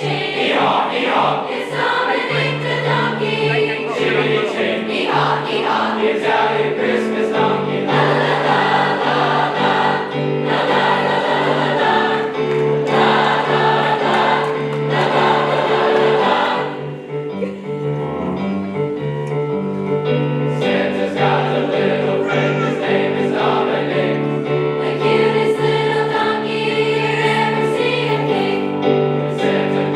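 High school choir singing a song, with a brief dip in level about two-thirds of the way through.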